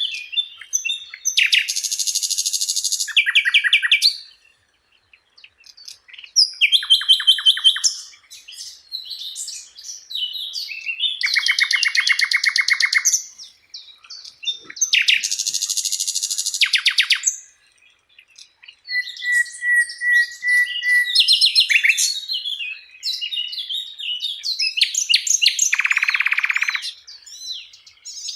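Sikatan Londo flycatcher singing a varied song of rapid, buzzy trills and sharp chirps, in phrases a second or two long with short pauses between them; a steady whistled note comes near the middle and a lower buzzy trill near the end.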